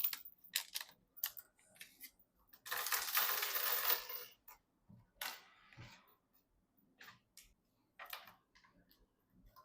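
Hands working on PC parts during assembly: a series of small plastic and metal clicks and taps, with a longer noise lasting about a second and a half about three seconds in, then a few scattered clicks.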